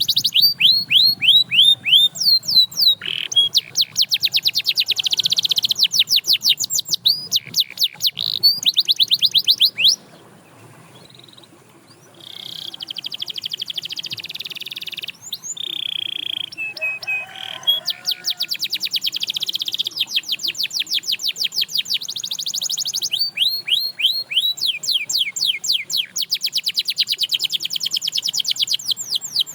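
Domestic canary singing: fast trills of repeated falling high notes, one phrase after another, with a brief quieter break about ten seconds in before the song picks up again.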